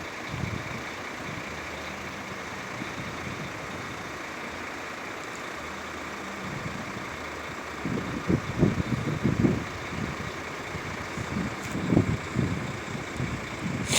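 Steady vehicle engine noise, with wind buffeting the microphone in irregular gusts from about eight seconds in.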